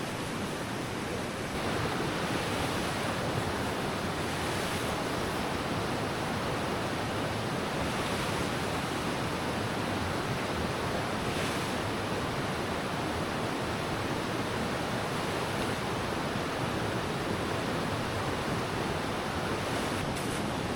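River water rushing past in a steady, even noise that gets a little louder about a second and a half in.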